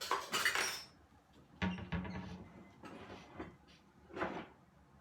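Kitchen utensils clattering as they are picked up and set down: measuring cups, a spatula and a whisk knocking against each other and the counter, in several short bursts with a sharp knock about a second and a half in.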